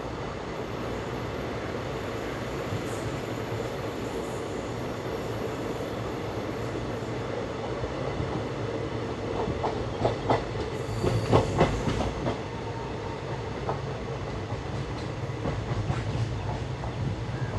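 Passenger express train running steadily, heard from aboard, with a cluster of sharp wheel clatters over the track about ten to twelve seconds in and a few more near the end.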